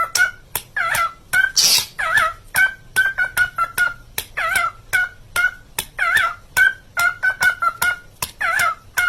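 A bird calling over and over in a repeating rhythm. Each phrase is a bending, wavering call followed by a string of short chirps, about once every second and a bit, with sharp clicks among them.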